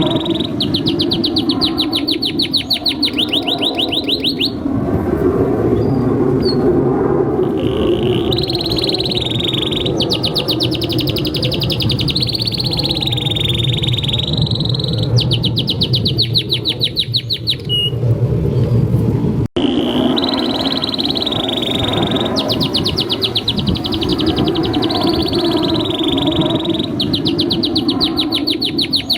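Male domestic canary singing a long song: rapid rolling trills alternate with smoother, held phrases, over a steady low background hum. The song breaks off for an instant about two-thirds of the way through and then resumes.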